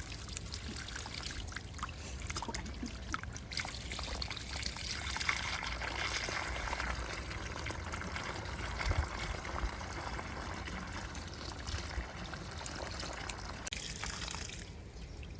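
Water pouring and trickling steadily, a little heavier for a few seconds midway.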